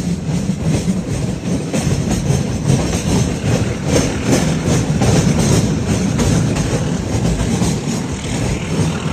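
Train running on the rails: a steady low rumble with repeated clacks of the wheels over rail joints.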